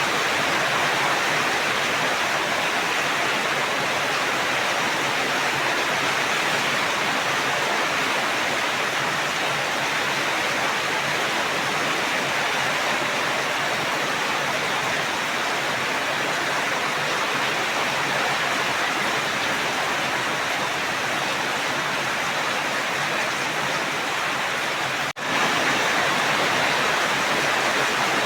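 Steady heavy rain, a dense, even hiss of falling water; it cuts out for a split second near the end.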